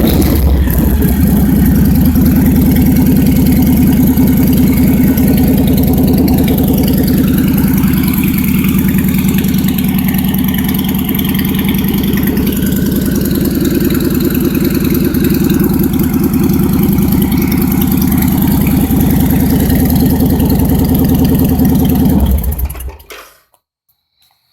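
2002 Victory V92C's 1507 cc air-cooled V-twin idling steadily through chrome straight pipes, loud and even, then stopping about 22 seconds in.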